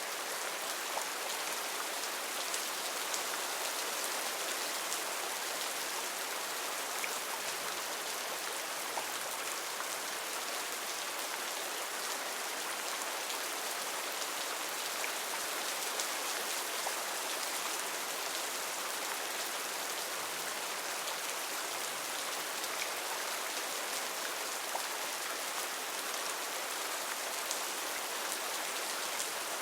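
Heavy rain falling steadily on rainforest foliage: a constant dense hiss with many small drop ticks, and no change in strength.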